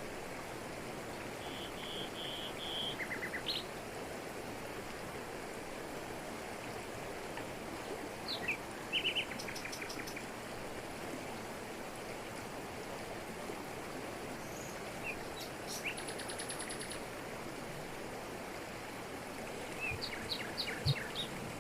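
Steady rush of a waterfall falling over rocks in tropical forest, with birds calling over it in short bursts of chirps and trills now and then.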